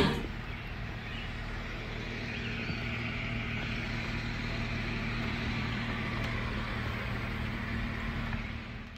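A Jeep's engine idling steadily.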